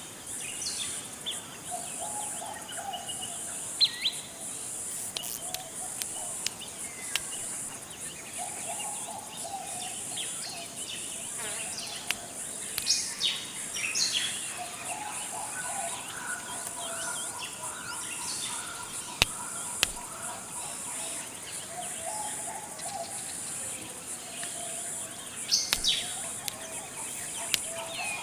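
Tropical forest ambience: a steady high insect drone under many short bird chirps and whistles, with a low call repeated every few seconds.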